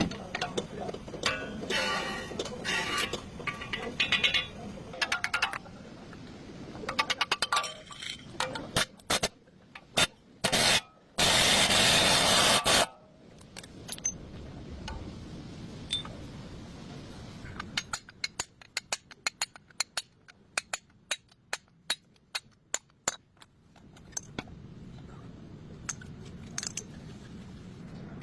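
Metal tools and parts clinking, knocking and scraping during work on a Toyota Hilux front wheel hub for a wheel bearing replacement. About halfway through there is a loud burst of noise lasting about two seconds.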